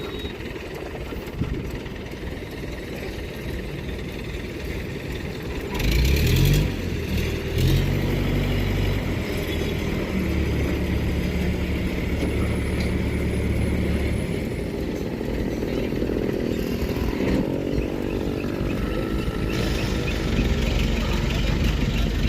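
Tractor diesel engine, an Eicher 485's, running: it revs up about six seconds in, runs steadily for several seconds, then rises in pitch again as it is revved once more.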